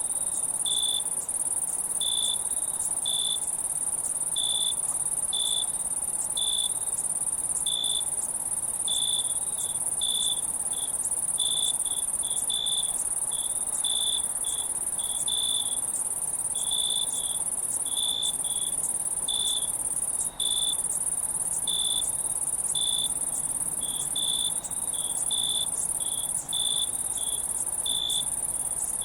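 Crickets chirping: short, high chirps repeating about one to two times a second over a continuous, higher-pitched insect trill.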